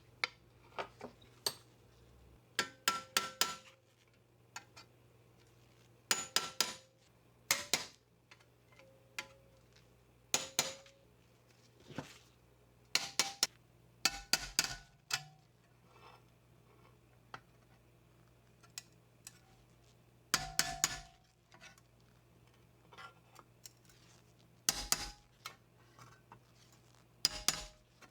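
Metal pieces and hand tools clinking and tapping against each other in irregular clusters, several strikes ringing briefly, over a faint steady low hum.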